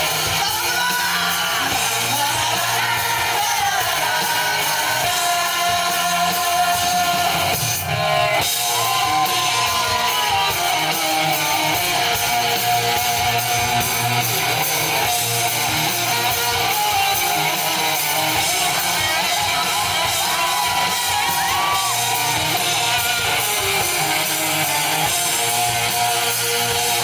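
Live rock band playing with loud electric guitar over bass and drums, a lead line bending in pitch, with some sung or shouted vocals.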